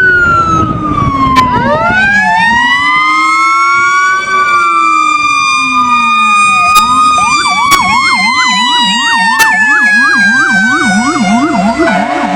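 Fire truck sirens on a response run. An electronic siren wails slowly up and down, then switches to a fast yelp about seven seconds in. Over it a Federal Q mechanical siren winds up into a high scream and then slowly coasts down.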